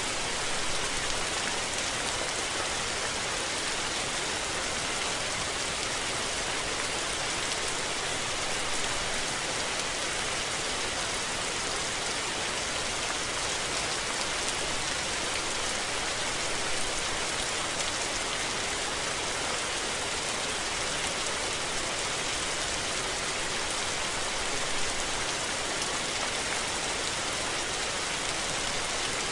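Steady rain falling and pattering on surfaces, an even hiss full of fine drop ticks, with no thunder.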